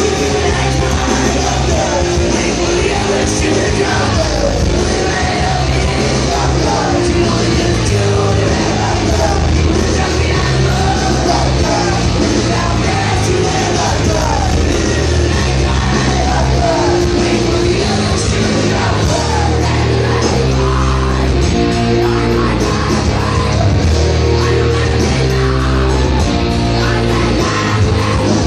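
Punk band playing live and loud: bass, guitar and drums with shouted, yelled vocals.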